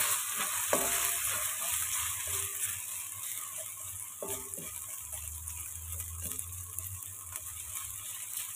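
Diced food sizzling in oil in a honeycomb-textured frying pan as a spatula stirs it. A steady hiss runs throughout, with a few short scrapes and taps of the spatula against the pan, about a second in and again around four seconds in.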